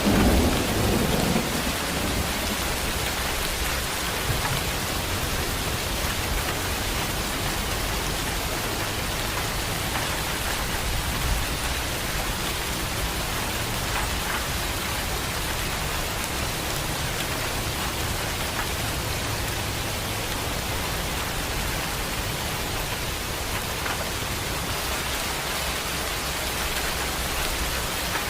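Heavy rain pouring steadily, with the tail of a low thunder rumble fading out in the first second or so.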